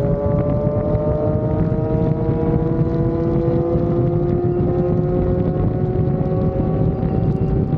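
Sport motorcycle's inline-four engine pulling steadily in one gear, its pitch climbing slowly as the bike gains speed. Heavy wind buffets the microphone.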